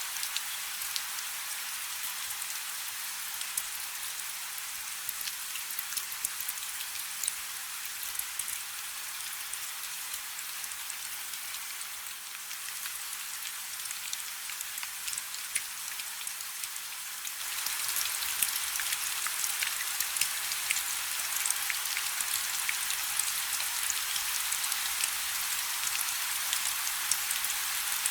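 Steady rain falling on a river: a dense, even patter of countless small drops splashing on the water. The rain grows louder about two-thirds of the way through.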